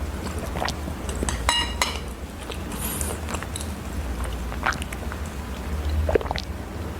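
Close-up eating sounds: chewing and mouth smacks, with scattered clicks of tableware and a short ringing clink about one and a half seconds in, over a steady low hum.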